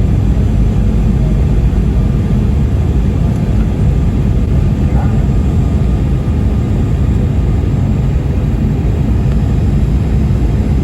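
Aircraft cabin noise on the landing approach: engine and airflow noise heard from inside the cabin, a steady low rumble.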